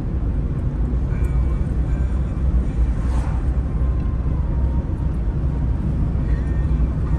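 Car driving at a steady pace: a continuous low engine and road rumble, with a brief hiss about three seconds in.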